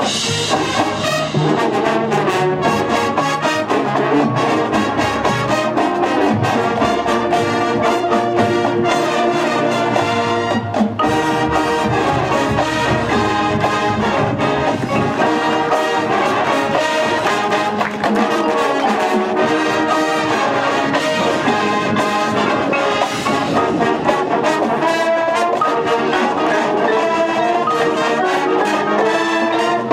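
High school band playing a brass-led piece, trombones and trumpets carrying the tune over steady percussion hits.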